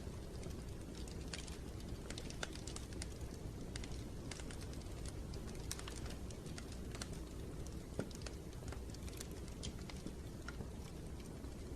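Wood fire in a fireplace crackling: irregular sharp pops and snaps over a steady low rumble, with one louder pop about eight seconds in.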